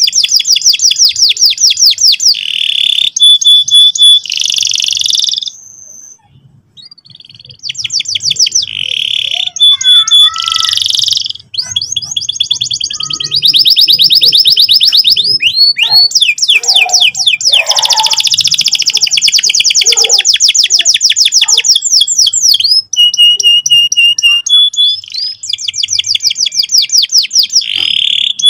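Domestic canary singing: long, fast rolling trills alternating with short whistled notes and chirps, loud and nearly continuous, with brief pauses about six and eleven seconds in.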